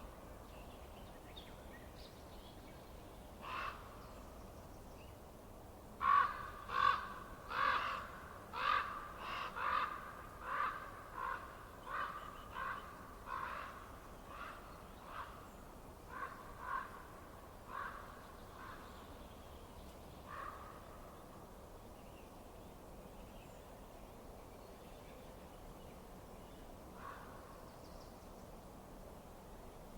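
A bird calling in a run of short repeated calls, about fifteen in a row from about six seconds in and slowly fading, with single calls before and after, over a steady low hiss.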